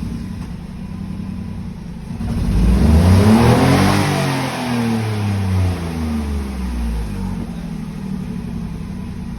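Fiat Argo's Firefly engine idling, then revved once about two seconds in, its pitch rising and slowly falling back to idle, just after its torn oil-separator membrane was replaced.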